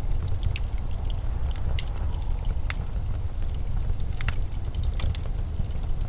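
Steady winter storm wind with a deep, low rumble, with faint scattered crackles and ticks over it.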